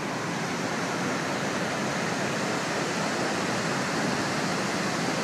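Victoria Falls: a steady rush of massive falling water.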